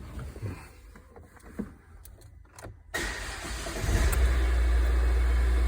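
2015 Ford Transit Connect engine cranking about three seconds in, catching within a second and then idling steadily. This is the first start after a CAN bus fault that had left the van with no crank was repaired. Before the start there are a few faint knocks.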